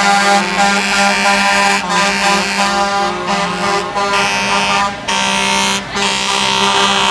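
Truck air horns blaring in long held blasts, with brief breaks about once a second in the middle.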